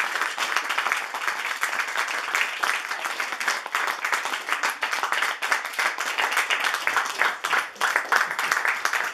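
Audience applauding steadily: many hands clapping at the end of a theatre performance.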